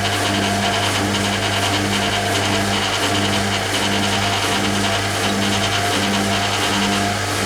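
1980 Hoover Keymatic A3112 washing machine running in its drain phase: a steady low motor hum with a mid-pitched tone that pulses about one and a half times a second.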